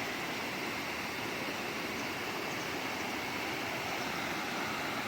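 River water rushing: a steady, even noise.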